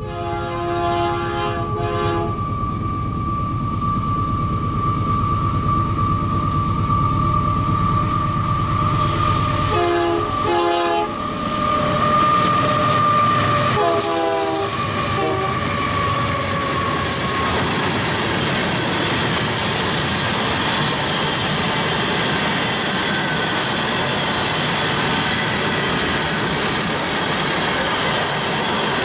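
Union Pacific diesel freight locomotives pass close by, sounding their air horn: a blast near the start, then short pairs at about ten and fourteen seconds in. Under the engines runs a steady high whine that fades once the locomotives are past. Then a string of coal hopper cars rolls by with steady wheel and rail noise.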